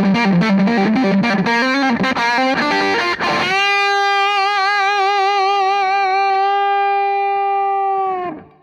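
Electric guitar overdriven by an EarthQuaker Devices White Light Legacy overdrive pedal with its COMP switch in the plus position, through a Hughes & Kettner Tubemeister valve amp. Fast distorted riffing gives way, about three and a half seconds in, to a single held note with wide vibrato that sustains for about four seconds and is cut off near the end.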